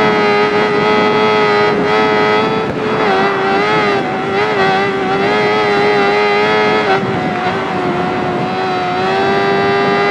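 Motorcycle engine running at high, nearly steady revs, a sustained high-pitched note with small dips in pitch a few times.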